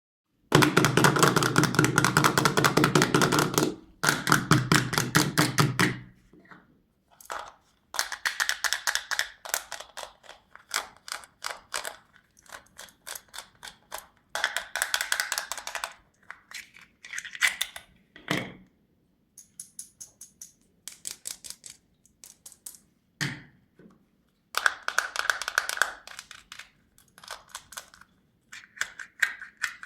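Close-miked candy ASMR: candies and their shiny wrappers being handled, giving runs of rapid crackling clicks in bursts of a few seconds with short pauses between them. The first burst is the loudest and fullest, and there is a single sharper knock about two-thirds of the way through and another a few seconds later.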